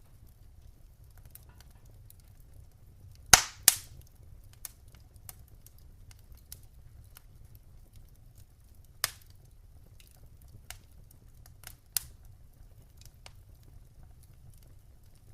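Wood fire crackling in a fireplace: scattered small crackles and a few sharp pops from the burning wood, a close pair of loud ones a few seconds in and two more single pops later, over a low steady rumble.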